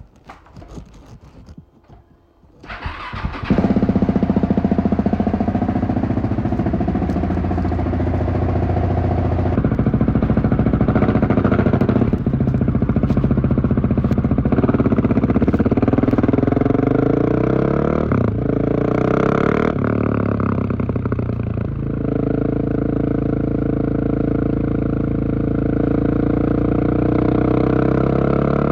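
Husqvarna 701 Supermoto's single-cylinder four-stroke engine, fitted with a LeoVince aftermarket exhaust, starting about two and a half seconds in, then idling steadily with a couple of brief revs around two-thirds of the way through.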